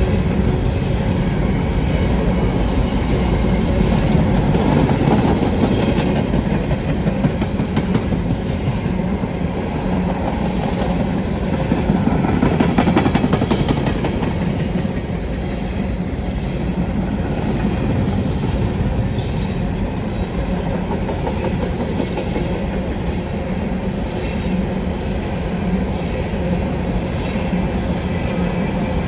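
A train rolling past with a steady, heavy rumble and wheel clatter over the rails. A thin high squeal, the wheels squealing on the rail, comes in about fourteen seconds in and lasts about three seconds.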